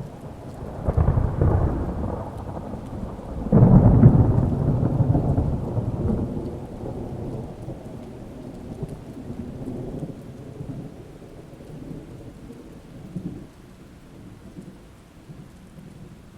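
Thunder under steady rain: a first rumble about a second in, then a louder clap at about three and a half seconds that rolls on and slowly dies away over the next ten seconds.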